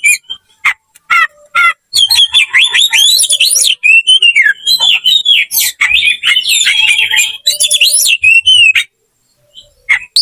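Oriental magpie-robin (kacer) singing a loud, rapid fighting song of varied whistles and sharp chirps, the aggressive song of a bird challenging a rival. It falls silent for about a second near the end.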